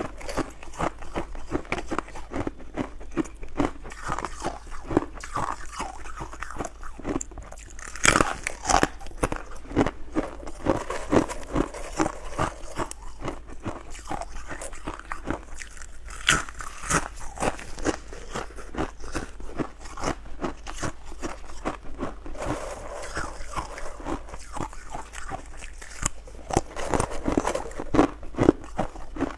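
Ice being bitten and chewed close to the microphone: a steady run of sharp crunches and clattering cracks, with a few louder crunches here and there.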